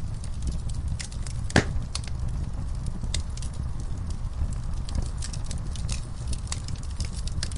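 Wood fire in an outdoor fireplace crackling, with irregular small pops and one loud pop about a second and a half in, over a steady low rumble.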